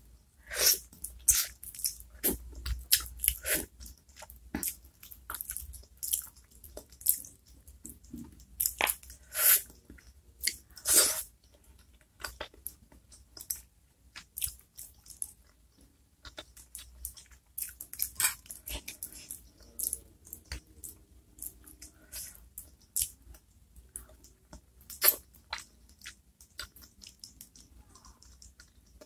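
Close-miked eating of chicken feet in chili sauce: wet smacks, clicks and chewing as the skin and cartilage are bitten and sucked off the bones. The clicks come thick and fast for the first dozen seconds or so, then thin out.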